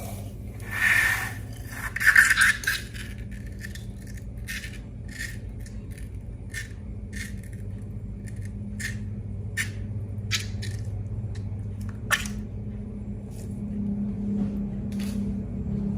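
Hands working slime and balloons: irregular short sticky clicks and ticks, with two louder scraping bursts about one and two seconds in, over a steady low hum.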